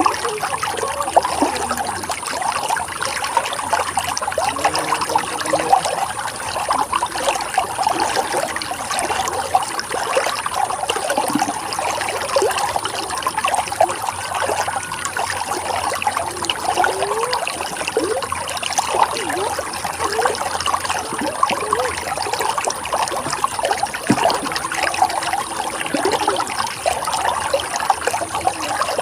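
Running water trickling and gurgling steadily, with small bubbling notes over an even rush.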